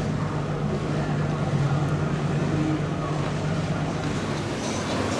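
Powerboat engine running with a steady low drone, over water wash and wind noise.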